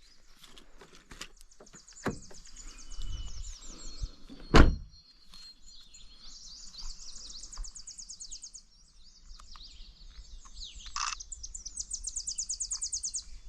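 Songbirds singing in fast, high trills and chirps, several overlapping, with the trills thickest near the end. A single heavy thump about four and a half seconds in stands out louder than the song.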